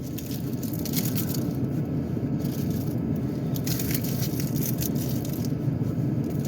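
Rustling and crinkling of things being handled, in several short bursts, over the steady low hum of the Ford Edge's engine idling.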